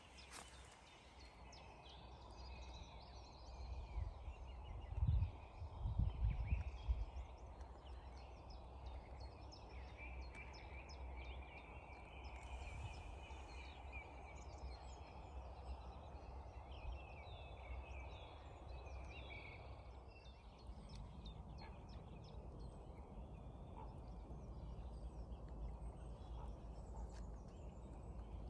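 Wild songbirds chirping and whistling in short, repeated calls over a steady outdoor hiss. A few low thumps come about five to six seconds in.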